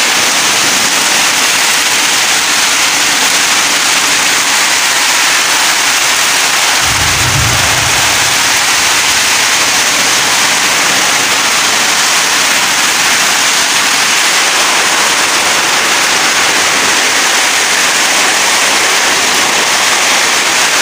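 Heavy rain pouring down in a loud, steady hiss during a storm with strong wind. A brief low rumble comes about seven seconds in.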